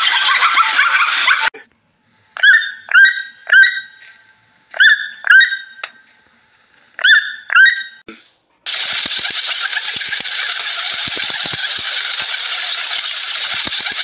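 Plains zebra barking: seven short, loud calls, each rising and then falling in pitch, in a run of three, then two, then two. After a short gap comes a steady hiss with a few low knocks.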